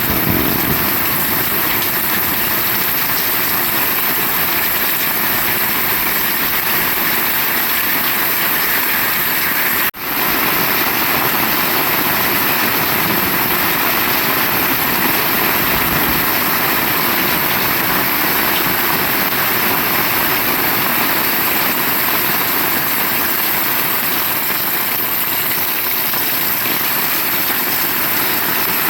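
Heavy rain falling, a dense steady hiss, with a brief dropout about ten seconds in.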